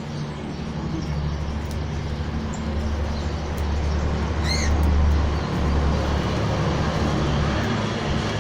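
A motor vehicle going past on a nearby road: a low engine rumble that builds to a peak about halfway through, then eases off near the end. A short, high, falling bird call sounds once in the middle.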